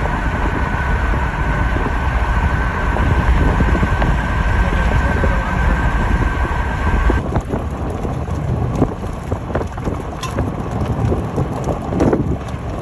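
Storm wind rumbling on the microphone with rain, a faint steady whine in the first half. About seven seconds in the sound changes abruptly to wind and rain with scattered sharp knocks.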